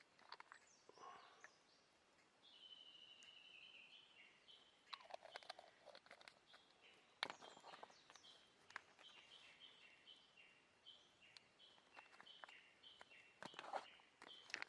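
A small songbird singing in a quiet forest: a long run of short, high chirping notes, repeated in quick stepping phrases. Now and then there is a soft rustle or light knock close by.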